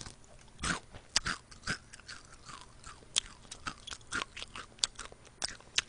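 Close-miked biting and chewing of a crispy fried chicken wing: irregular crunches and sharp crackles of the coating.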